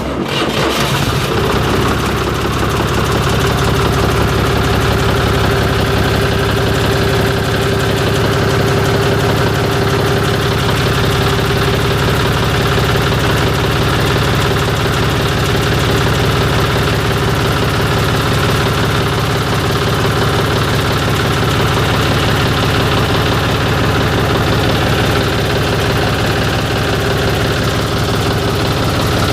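Three-cylinder diesel tractor engine idling steadily. The sound cuts in abruptly at the very start.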